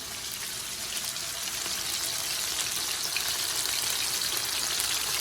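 Chicken pieces frying in hot corn oil in a pan: a steady sizzle with scattered crackles, growing a little louder as it goes.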